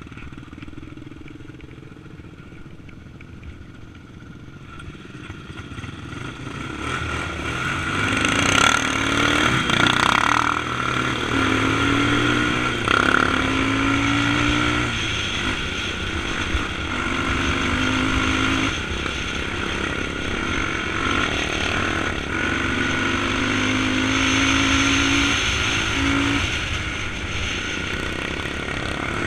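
Motorcycle engine under way, quieter at first and then accelerating. Its pitch climbs and drops back several times as it runs up through the gears.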